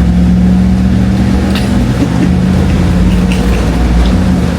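Vehicle running with a steady low drone and hum, heard from inside it.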